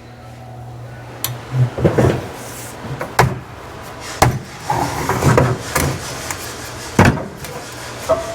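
Irregular metal clanks and knocks as a Humvee body pillar is worked loose, about eight sharp hits spread unevenly, over a steady low hum.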